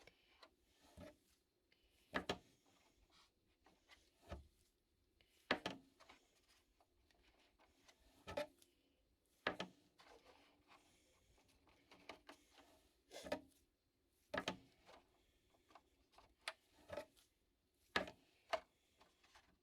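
Scattered light clicks, taps and rubbing of plastic RC truck body parts being handled and pressed together during gluing, a knock every second or two with quiet between.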